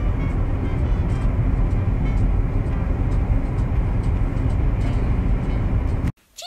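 Loud, steady rumble of a tractor engine running, with faint music over it; it cuts off abruptly near the end.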